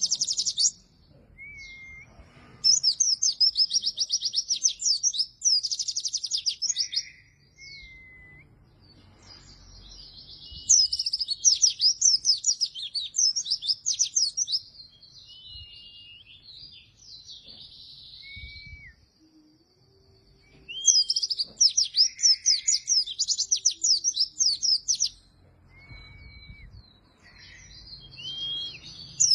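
A white-eye (pleci) singing vigorously: bursts of fast, high twittering song a few seconds long, repeated about six times, with short single whistled notes in the pauses between.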